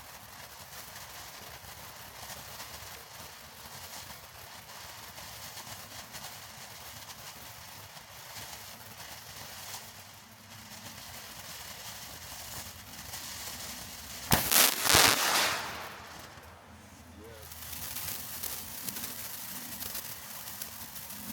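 Consumer fireworks going off: a steady high crackling throughout, with one much louder blast about two-thirds of the way in, then the crackling building again near the end.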